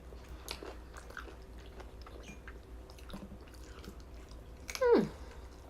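Someone chewing food, with soft, wet, scattered mouth clicks. About five seconds in, a short voice slides down in pitch.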